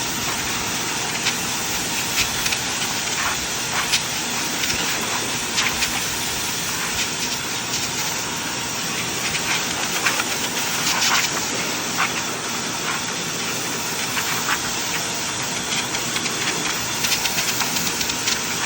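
Blow dryer running steadily, a constant rush of air, with a few light clicks over it.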